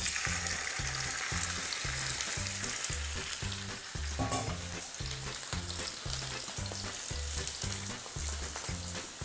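Chicken pieces sizzling as they sear in hot olive oil in a frying pan, with a steady bass beat of background music underneath.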